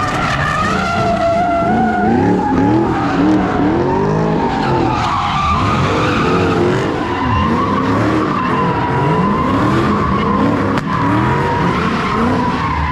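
A car doing donuts or drifting: tires squealing without a break while the engine revs rise and fall over and over.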